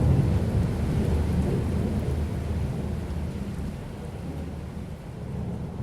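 Thunder rumbling low and slowly dying away, with rain falling steadily.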